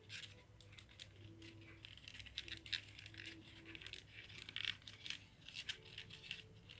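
Faint, irregular crinkling and light clicking of folded cigarette-pack paperboard being handled and slotted together, over a low steady hum.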